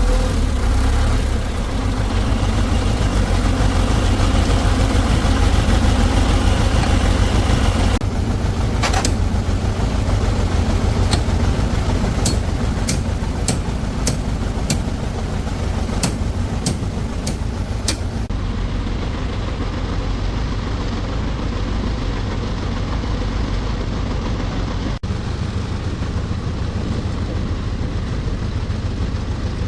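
Heavy machine's diesel engine idling steadily, with about ten sharp clicks about a third of the way in.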